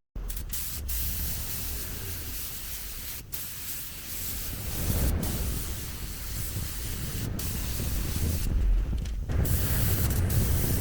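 Spray gun hissing as it sprays paint onto the car body, the hiss broken briefly several times as the trigger is let off, with a longer pause near the end. A low rumble runs underneath.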